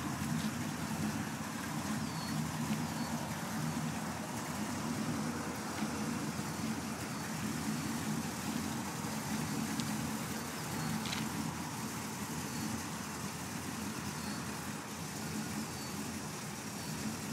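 Chevy Caprice's engine running at a steady low idle as the car creeps slowly along.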